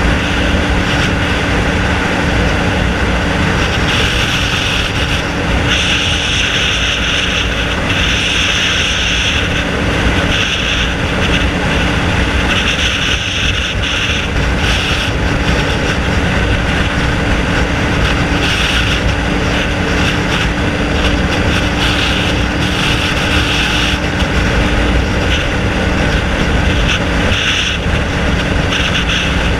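Honda VFR750F's V4 engine, running without a muffler, holding a steady note while riding at an even speed. A higher hiss swells and fades several times over the engine.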